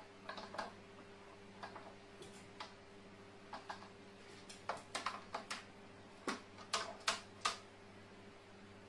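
Irregular light taps and clicks, sparse at first and then coming in a quick cluster about five seconds in, over a steady low electrical hum.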